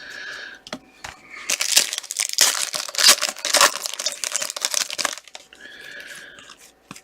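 Wrapper of a trading-card pack being torn open and crinkled: a dense crackle that starts about a second and a half in and lasts about three and a half seconds.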